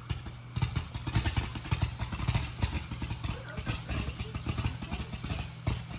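Fireworks crackling: a dense, rapid run of small pops that starts about half a second in and keeps going.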